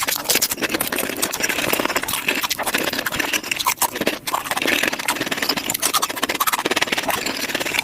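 Close-miked taco chewing and crunching, sped up about five times: a dense, continuous run of rapid clicks and crackles.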